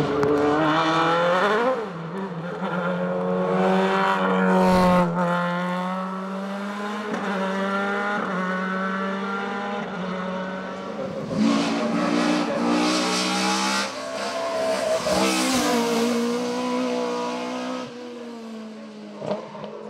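Race car engine running flat out on a hillclimb, revs climbing and dropping sharply at each gear change. It fades a little midway and swells again before easing near the end.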